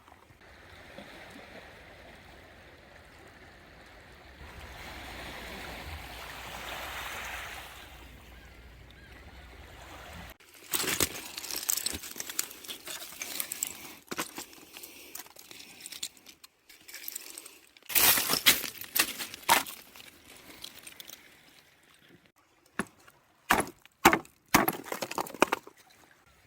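Water sloshing and splashing in irregular bursts, after a steady rushing noise in the first ten seconds or so.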